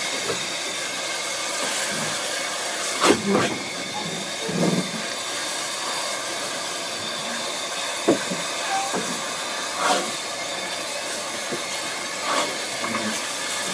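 Steam locomotive Caledonia hissing steadily while working hard at walking pace up a gradient, with single exhaust beats coming slowly and unevenly, a second or several apart. The locomotive is losing grip on greasy rails.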